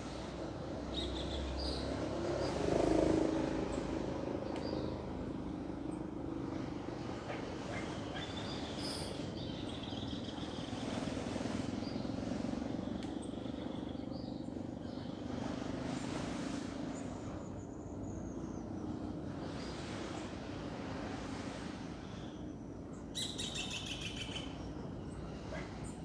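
Ocean waves washing steadily, swelling about three seconds in, with small birds chirping and tweeting on and off over them and a quick run of trilled chirps near the end.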